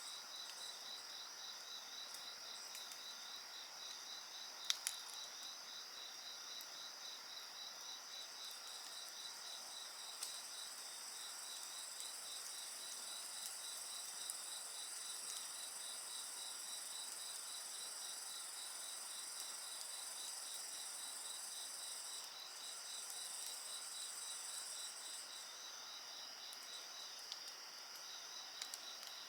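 Several insects calling steadily together, one in a rapid pulsing trill of about four beats a second, over a wood fire that gives a few sharp crackling pops, the loudest about five seconds in.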